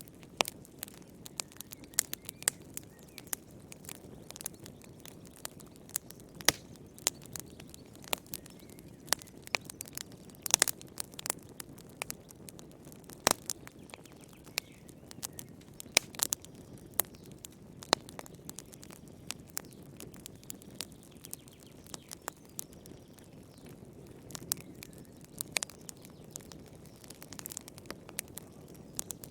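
Wood fire crackling in a fireplace: irregular sharp pops and snaps, several a second, over a soft low rustle of burning flames.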